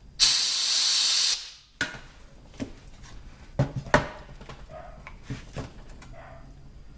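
A burst of compressed air hissing for a bit over a second, blown through the rebuilt brake caliper. It is followed by several sharp knocks and clicks of the metal parts being handled.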